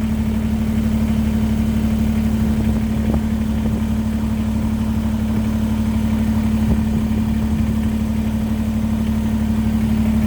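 Kubota BX23S compact tractor's three-cylinder diesel engine idling steadily.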